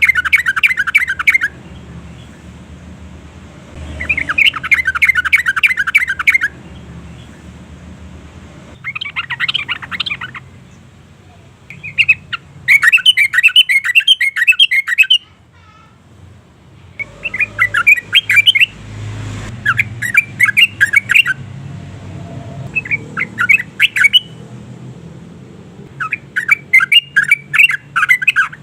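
Yellow-vented bulbul singing in about eight separate bouts of rapid chattering notes, each bout one to three seconds long with short pauses between, over a faint low hum.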